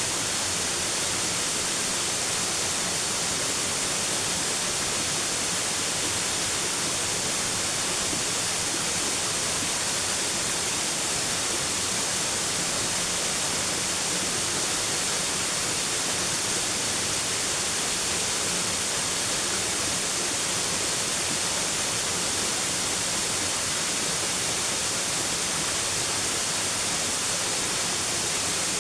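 Steady rushing of a waterfall, an even hiss that does not change.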